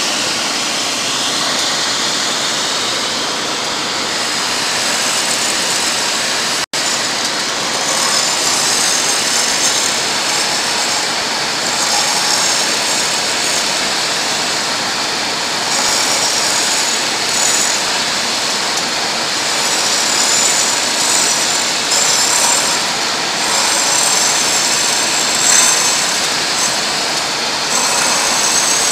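Diamut grinder reprofiling a diamond turbo disc: a steady, loud rushing grind that flickers in its upper register, with a momentary dropout about six and a half seconds in.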